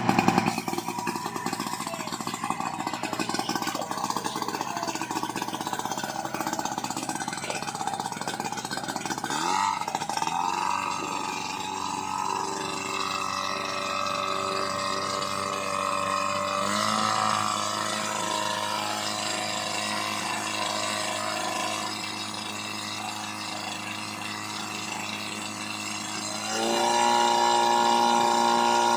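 Portable fire pump engine running. Its speed rises about a third of the way in and steps up again near the end, where it gets louder.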